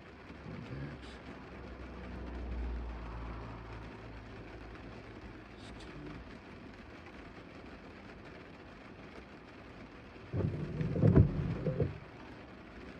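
Steady rain hiss, with a low rumble swelling about two seconds in and fading by about four seconds, and a louder sound lasting about a second near the end.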